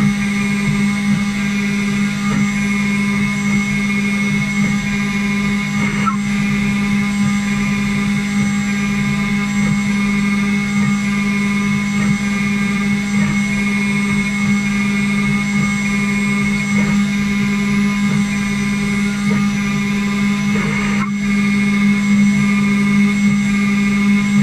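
CNC router running steadily as it machines a part: a constant motor hum with a steady higher whine, unchanging throughout.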